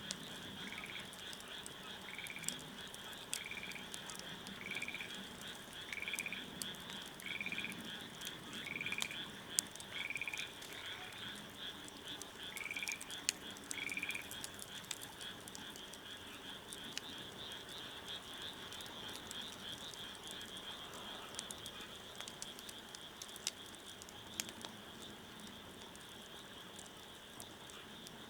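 A wood fire crackling with sharp, scattered pops. Over it, a short call repeats about every second and a half for roughly the first half, above a steady high-pitched chorus.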